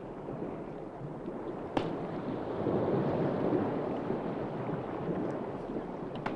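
Low, steady rushing water noise of the kind used for underwater scenes, swelling around the middle, with two sharp clicks: one a couple of seconds in and one near the end.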